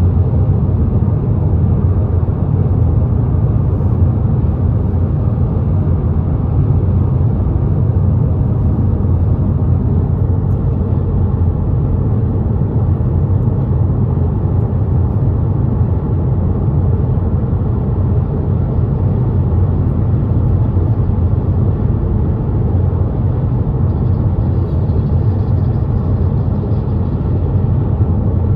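Steady low rumble of a car driving along a highway: tyre and engine noise, even throughout.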